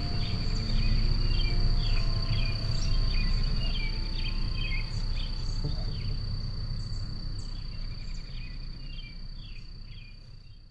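Insects, crickets by the tagger, trilling on one steady high note, with short bird chirps over a low rumble; the sound fades out near the end.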